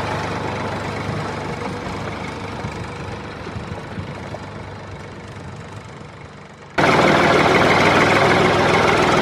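A steady engine-like running sound that fades gradually, then cuts abruptly to a much louder, harsher running sound about seven seconds in.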